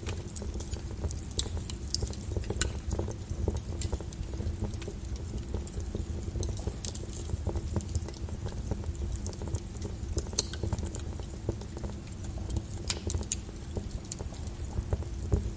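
Wood fire crackling in a fireplace: a steady low sound of the burning, with irregular sharp pops and snaps at uneven intervals.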